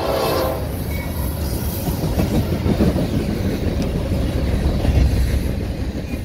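A train horn sounding, cutting off about half a second in, followed by the steady rumble and rattle of freight cars rolling past on the rails.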